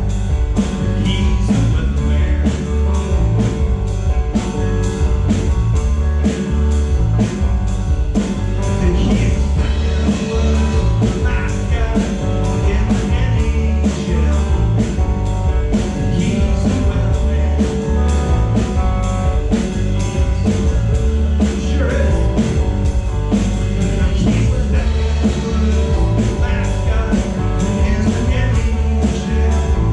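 A rock band playing a song live, with a steady drum beat under guitars and bass, and a voice singing over it.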